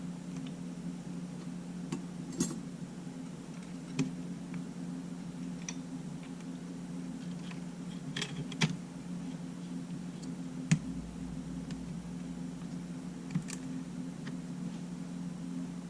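Scattered light clicks and taps of small tools and camera parts being handled during a camera repair, about half a dozen spread out, over a steady low hum.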